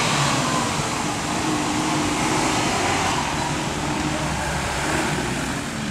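Suzuki off-road 4x4's engine running under load as it crawls up a steep dirt slope, its revs rising and falling.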